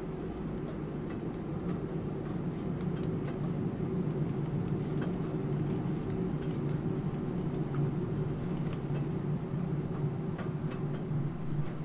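Steady rain with computer keyboard typing over it: sparse, irregular key clicks.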